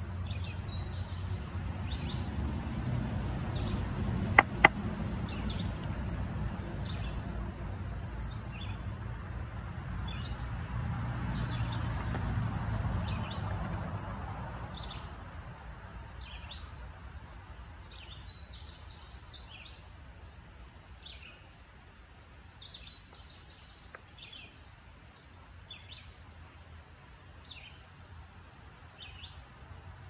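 Songbirds singing: a short high phrase repeated every several seconds among scattered chirps, over a low rumble that fades out about halfway through. Two sharp clicks in quick succession about four seconds in.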